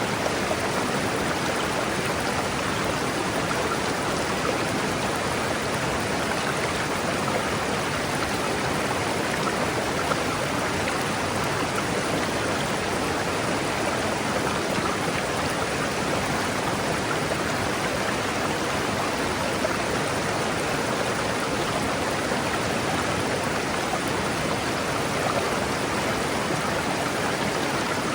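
River flowing, a steady, even rush of water with no breaks.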